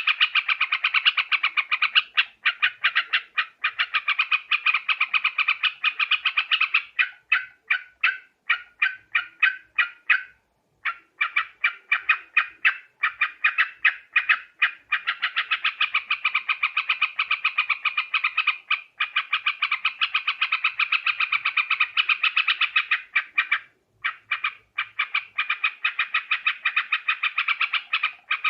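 Yellow-vented bulbuls (trucukan) calling in a dense, fast run of repeated chattering notes. The chatter breaks off briefly about ten seconds in and again near the end.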